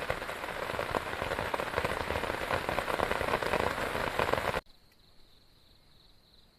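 Heavy rain falling, a dense patter of drops, that cuts off abruptly about two-thirds of the way through. What is left is a faint, steady, high insect buzz.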